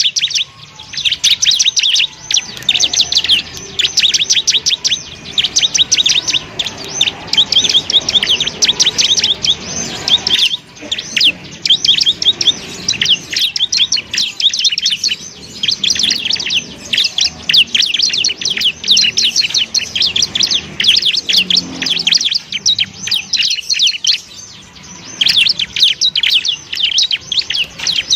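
Ciblek (bar-winged prinia) singing a fast, nearly unbroken chattering trill of rapid high notes in the sustained 'ngebren' style, with a few short pauses.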